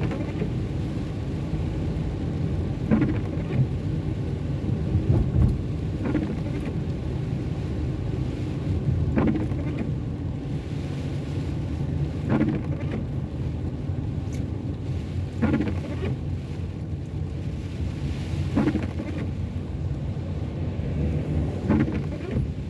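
Car cabin noise while driving on a wet road: a steady low rumble of engine and tyres, with the windscreen wipers sweeping about every three seconds.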